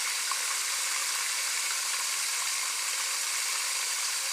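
Chicken tenders frying in hot oil, a steady sizzle.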